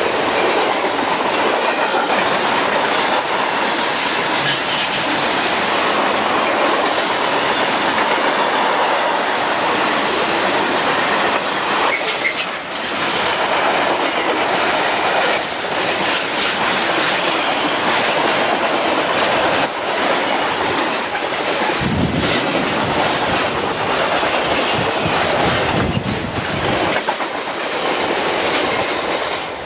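CSX freight cars, boxcars and covered hoppers, rolling past close by: a loud, steady rumble of steel wheels on rail with a continual scatter of clicks as the wheels cross rail joints.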